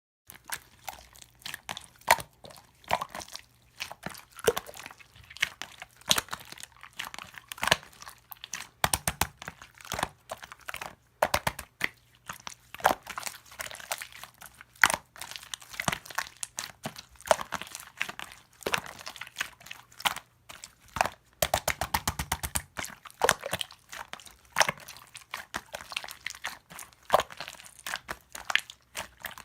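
Close, irregular crunching and crinkling crackles, with a fast run of clicks about three-quarters of the way through.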